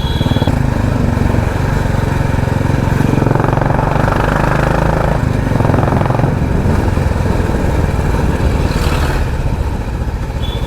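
Royal Enfield Classic 350's single-cylinder engine and exhaust running steadily while the bike is ridden, a fast, even train of exhaust pulses.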